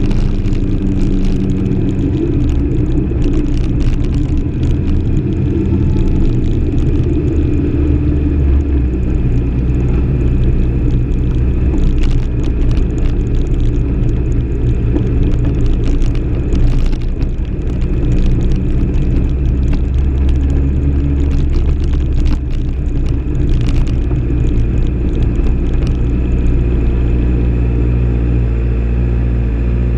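Kawasaki ZX-6R 636 inline-four motorcycle engine running at steady revs while the bike is ridden along a gravel road.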